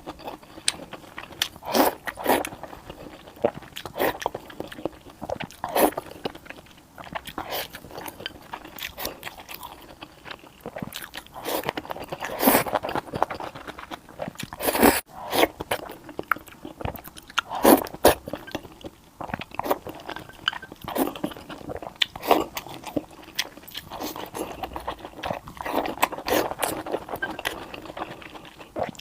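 Close-miked eating: a person biting and chewing crunchy food, with irregular crunches and crackles, a few of them louder bites.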